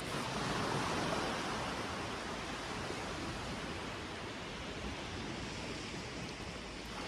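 Steady rush of sea surf breaking along a sandy beach, swelling a little about a second in.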